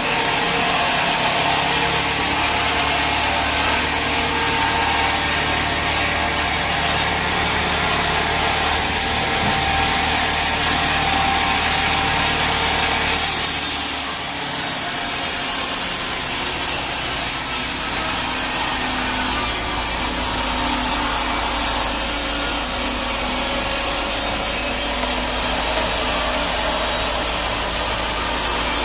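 Sawmill bandsaw blade cutting through a teak log: a continuous sawing hiss over the machine's steady motor hum. About halfway through the sound changes abruptly to a brighter, hissier cut with a different hum.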